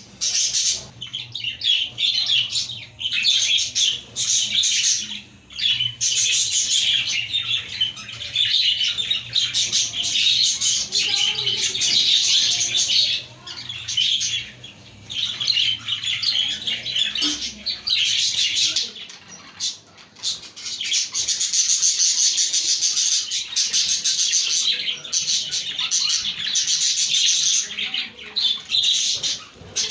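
A flock of budgies chattering and warbling continuously, with brief lulls.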